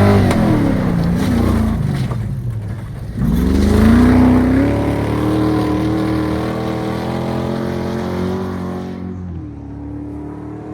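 Off-road race car engine under load: its pitch sags and the sound drops off briefly about two seconds in, then it revs up sharply and holds a steady high drone before fading near the end.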